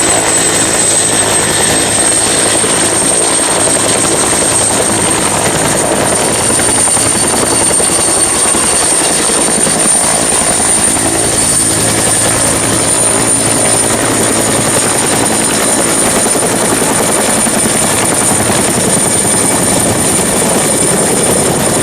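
Helicopter noise: a loud, steady rotor and engine sound with a thin high whine that climbs slightly over the first few seconds and then holds level.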